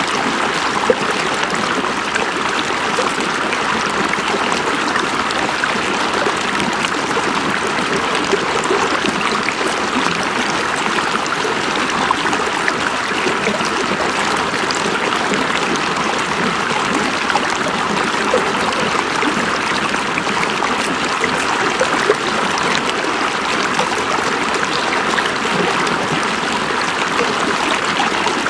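River water flowing over rocks: a steady rushing with small splashes and gurgles through it.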